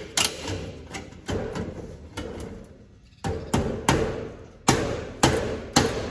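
Hand hammer striking a block, about ten irregular blows each with a short ring, driving new bearings into place on a harvester header.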